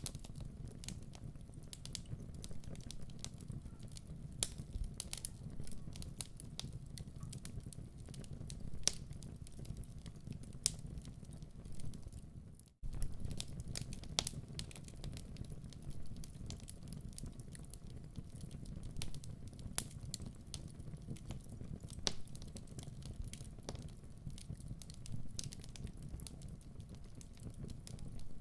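Wood fire burning: a steady low rumble of flames with irregular sharp pops and crackles, cutting out for a moment about halfway through.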